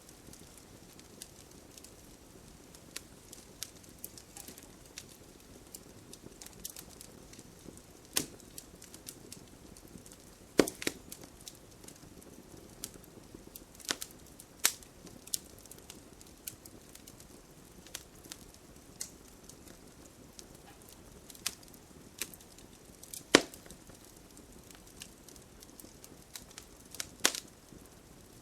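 Campfire burning: a soft steady hiss of flames with irregular sharp crackles and pops from the burning wood, a few of them much louder than the rest.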